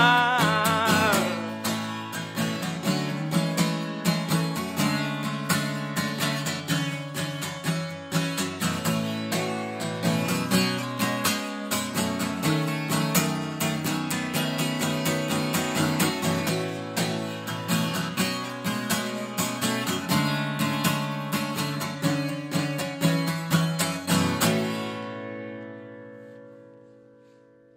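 Acoustic guitar playing an instrumental outro of quick, evenly picked notes, after a held sung note fades out about a second in. Near the end the last chord rings out and dies away.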